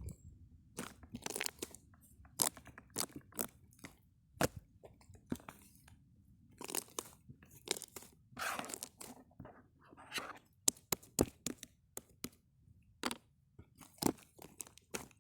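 Irregular, close-up crunching and crackling: many short sharp crackles and clicks, some in quick clusters, with a stronger run of crackling about eight seconds in.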